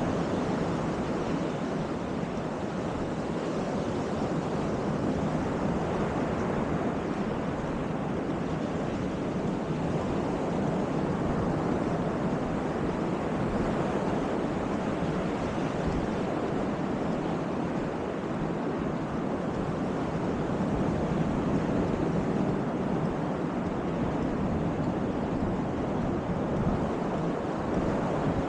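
Baltic Sea surf washing steadily onto the beach, with wind on the microphone.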